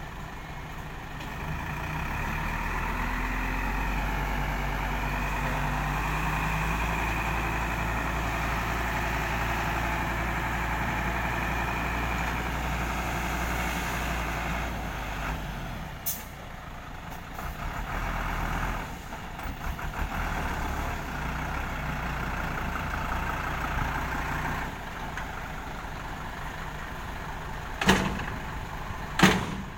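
Diesel six-wheel dump truck engine running, louder from about two seconds in and easing off around the middle. Near the end come two short, sharp air-brake hisses.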